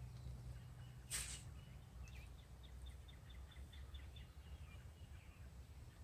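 A small bird chirping faintly in a quick run of short high notes, several a second, over a low steady background. A brief rustle about a second in.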